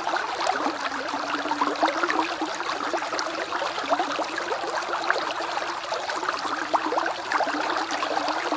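Small woodland creek bubbling steadily, a dense continuous burble of flowing water full of quick, rising bubbly plinks.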